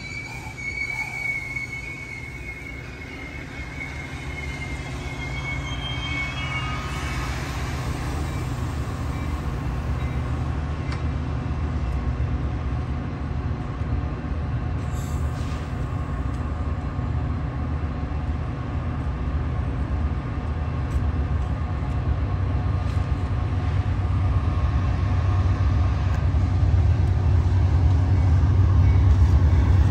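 A high steel-wheel squeal from a train fades out over the first several seconds. Then the low diesel rumble of an approaching BNSF freight train grows steadily louder.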